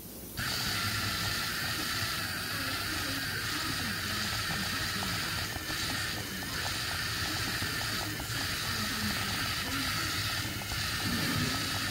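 Small electric drive motors of a Mibro bot toy robot running steadily as it moves, with a faint clicking of its wheels or gears. The sound starts abruptly about half a second in.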